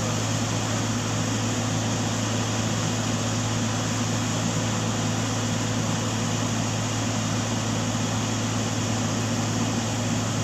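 A vehicle engine running steadily with an unchanging low hum and a constant noise beneath it.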